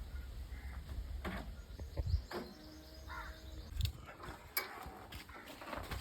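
Crows cawing now and then, with a few sharp knocks over a low background rumble.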